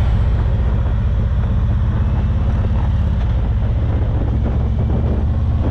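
Motorcycle engine running steadily at road speed, a low pulsing rumble mixed with wind rushing past the microphone.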